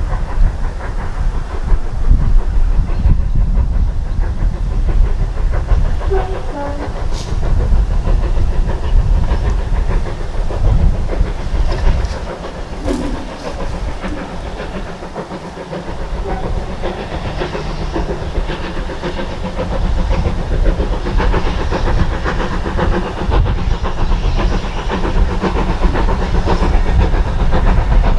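Steam locomotive passing with its train: exhaust and wheels on the rails. It dips in loudness about halfway through, then builds again.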